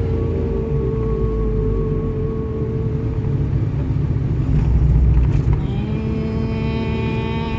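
Sustained droning tones with a heavy low rumble underneath; about six seconds in a new, richer held tone with many overtones comes in.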